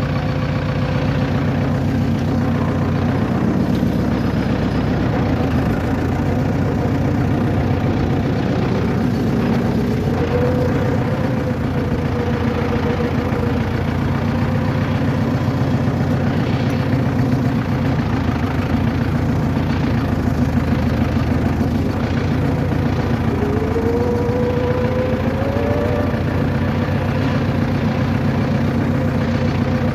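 Motor vehicle engine running steadily with a low hum, with a couple of short rising whines about ten seconds in and again later on.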